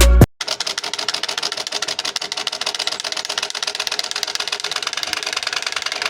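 A homemade bicycle 'exhaust silencer' attachment clattering as the wheel spins, a fast, even rattle of clicks meant to imitate a motorbike engine. It follows a short tail of music that cuts off abruptly.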